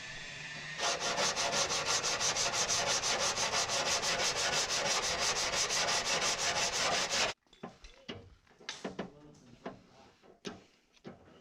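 Sanding on the repaired car body panel: fast, even scraping strokes, about eight a second, that stop suddenly. A steady hum comes before it, and a few light clicks and knocks follow.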